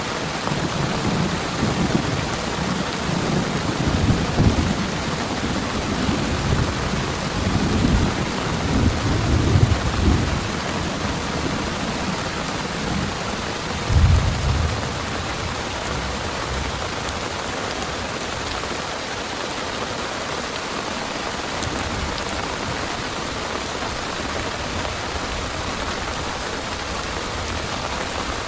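Heavy rain pouring steadily in a thunderstorm, with thunder rumbling through the first third and one louder thunder crack about halfway through, then rain alone.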